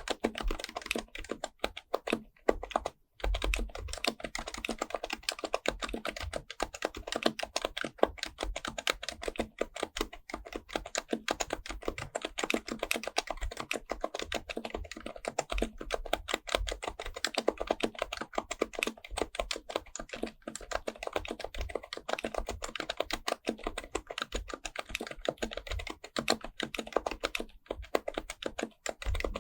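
Continuous fast typing on an HHKB Pro Type-S keyboard with silenced Topre capacitive switches: a dense, steady run of keystrokes with a brief pause about three seconds in.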